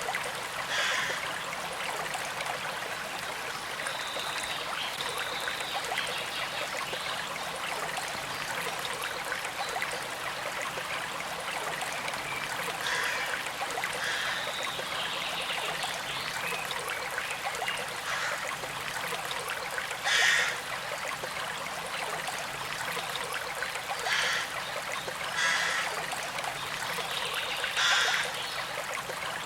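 Small stream flowing steadily, trickling water with several brief, louder splashes and gurgles, the strongest about two-thirds of the way through.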